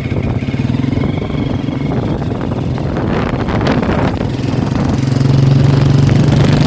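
Honda CRF230 dirt bike's single-cylinder four-stroke engine running while the bike is ridden. It eases off around the middle, then pulls louder and steadier in the second half.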